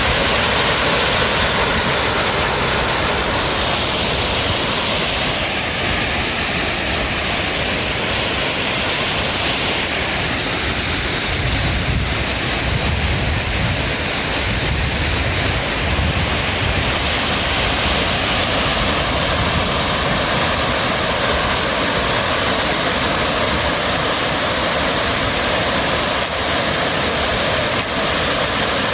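Steady rushing noise of falling water.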